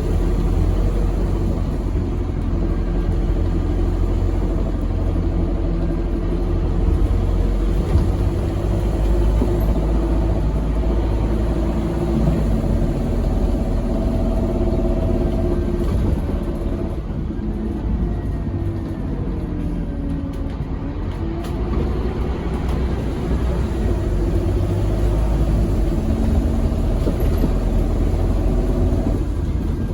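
Scania K270UB6 Omnilink bus under way, its 9-litre five-cylinder diesel running with a steady low rumble. The engine note rises and falls as it pulls and changes gear, with a gliding change in pitch about halfway through.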